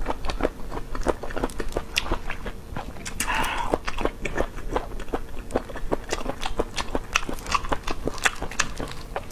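Chewing of cooked sea cucumber: an irregular run of wet mouth clicks and smacks, several a second.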